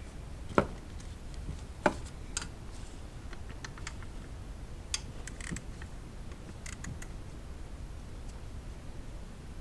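Scattered clicks and light metal ticks of hand work on the engine bay, such as tools and coil pack parts being handled. Two sharper clicks come in the first two seconds.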